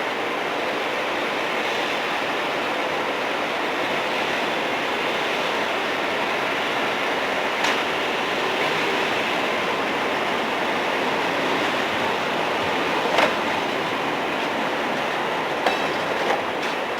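A train rolling past with a steady rushing noise of wheels on rail, broken by a few sharp clicks or clanks, one about halfway through and two close together near the end.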